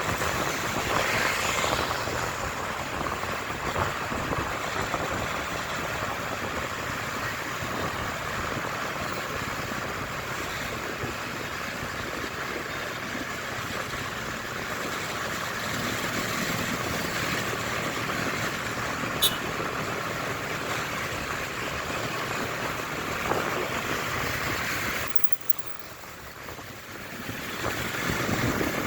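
Motorcycle on the move: steady engine and wind noise on the camera microphone. It drops off suddenly about 25 seconds in and builds back up over the next few seconds, with a brief high tick about 19 seconds in.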